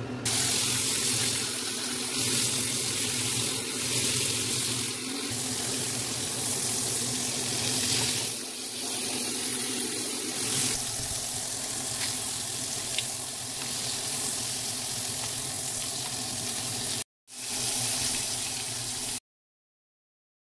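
Shrimp skewers sizzling in oil in a stainless steel frying pan: a steady frying hiss over a low, steady hum. The sound drops out briefly, comes back, and then cuts off suddenly near the end.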